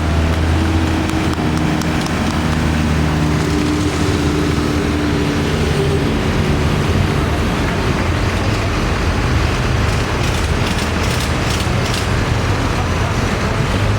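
Tractor engines running steadily as tractors drive past, a low steady engine note, with a run of sharp clicks about ten seconds in.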